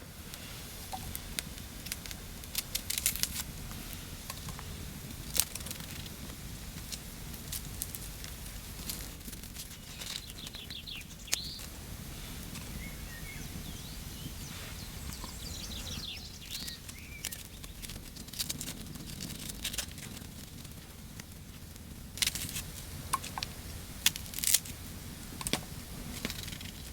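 Scattered sharp clicks and crackles over a steady low rumble, typical of outdoor wood-fire cooking, with a few faint bird chirps.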